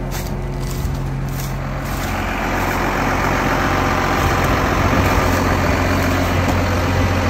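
Heavy farm vehicle's diesel engine running, growing louder from about two seconds in.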